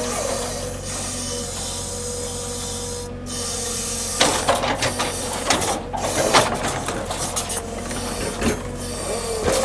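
Hydraulic log loader at work: a diesel engine running with a steady hydraulic whine, and from about four seconds in, logs knocking, clattering and scraping against each other as they are handled.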